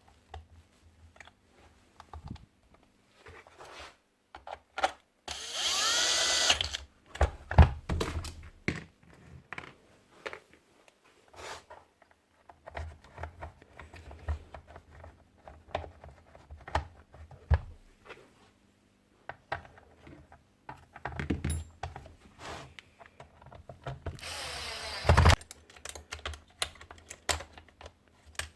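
Small parts clicking and tapping as a nail gun is worked on by hand, with two short bursts of a power tool: one about five seconds in and one near the end.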